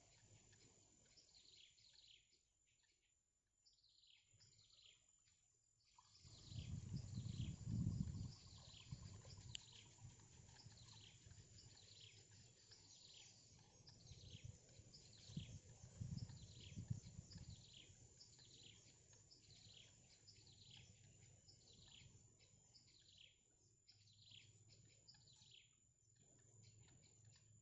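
A bird chirping over and over, short high calls that each fall in pitch, about one a second. Two bouts of low rumbling noise, about six and fifteen seconds in, are louder than the calls.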